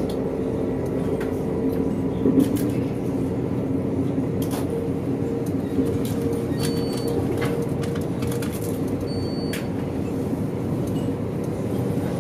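Stadler FLIRT passenger train running along the line, heard inside the passenger cabin: a steady rumble with a low hum, and a few light clicks along the way.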